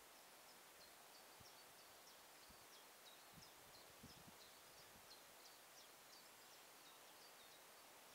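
Faint birdsong: a small bird's rapid, continuous string of short high chirps over a quiet outdoor hush, with a few soft low thumps in the middle.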